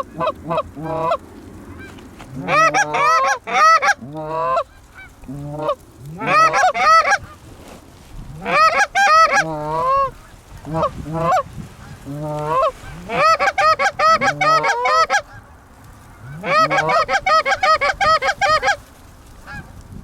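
Canada goose honks and clucks, fast runs of loud, pitch-bending calls in bursts every second or two.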